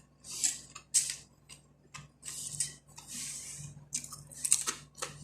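Close-up chewing of crunchy dried khubz (Arabic flatbread): about eight irregular crisp crunches as the hard bread is bitten and broken down between the teeth.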